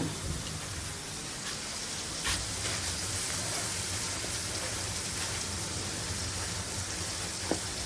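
Steady hiss of burger patties frying on a flat-top griddle, with a sharp knock about two seconds in.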